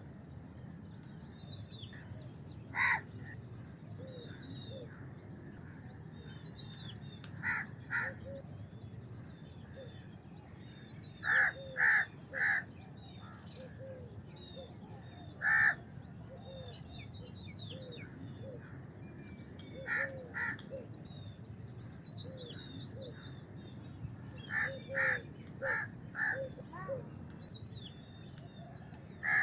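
House crows cawing: short caws singly and in runs of two or three, then a quick run of five near the end. Other small birds chirp high and fast throughout, over a low steady background noise.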